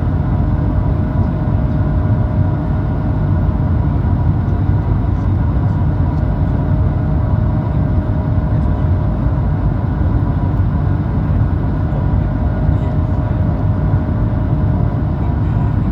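Aircraft engines and airflow during take-off, a loud steady rumble with faint steady whining tones over it.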